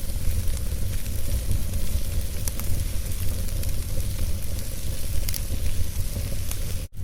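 Logs burning in a fireplace: crackling with scattered sharp pops over a steady low rumble of the flames. The sound cuts out for an instant near the end.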